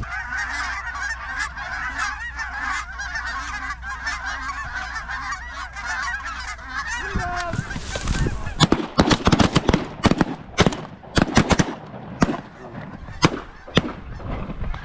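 A flock of small geese honking and cackling together. After about eight seconds a rapid volley of many shotgun blasts from several hunters breaks out and runs for about five seconds, with the honking continuing around it.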